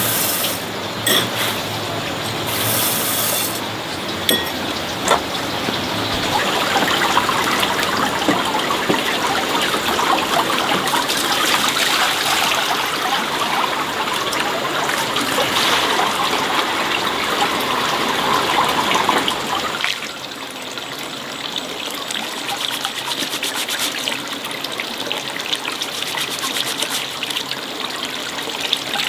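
Water running and splashing, with a few sharp knocks in the first few seconds; about two-thirds of the way through it turns quieter and thinner.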